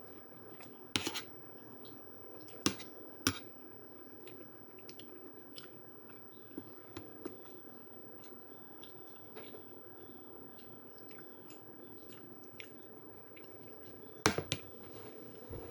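A person chewing food close to the microphone, with small ticks and a few sharp clicks: one about a second in, two close together around three seconds, and one near the end. A steady low hum sits underneath.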